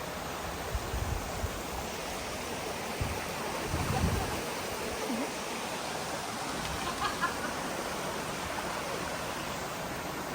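Swallow Falls waterfall: a steady rush of falling and flowing water, with a few low bumps about one and four seconds in.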